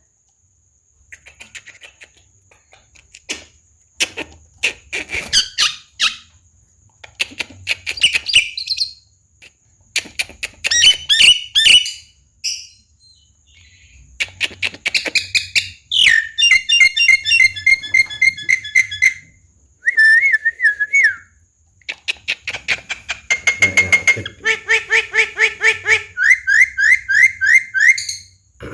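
Javan myna (jalak kebo) singing: phrases of harsh chattering, whistled glides and quick trills separated by short pauses. A fast string of repeated whistled notes comes in the last few seconds.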